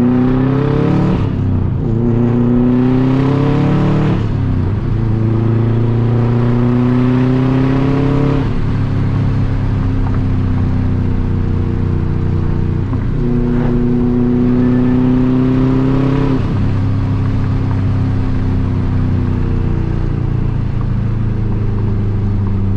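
2004 Subaru Impreza WRX STI's turbocharged 2.5-litre flat-four engine, running through a very loud cat-back exhaust, pulling up through the gears, heard from inside the car. Its pitch climbs and then drops sharply at each upshift, about five times, with a steadier cruising stretch in the middle.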